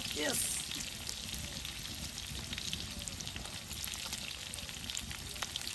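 Food frying in hot oil in a pan: a steady sizzle with many small crackling pops.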